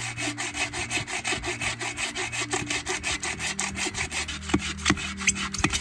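Hand saw cutting firewood with quick, even back-and-forth strokes, about six a second. A few sharper knocks come near the end as the cut nears completion.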